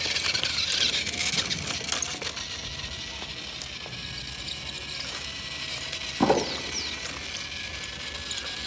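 Plastic toy vehicle mechanism clicking and ratcheting over a steady thin whine, with a single louder thump about six seconds in.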